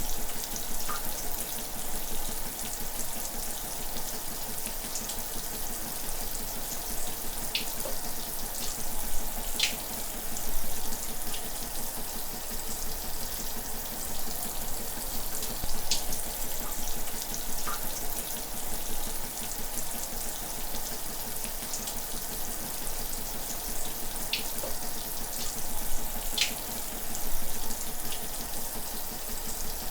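Shower running steadily: a constant hiss of water spray, with a few brief plinks of drops scattered through it.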